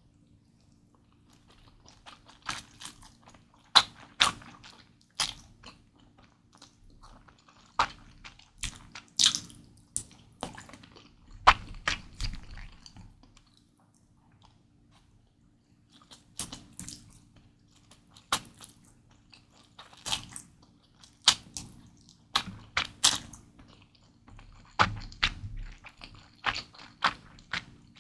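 Close-miked eating of Mi Goreng fried instant noodles: irregular wet chewing and sharp mouth clicks, with a pause of about two seconds around the middle.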